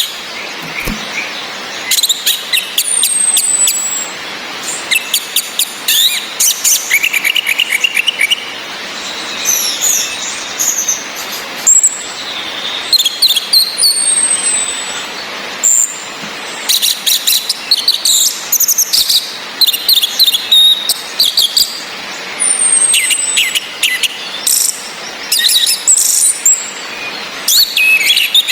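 Orange-headed thrushes calling: dense runs of rapid, sharp chattering notes with a few high, falling whistles, over a steady hiss of rain.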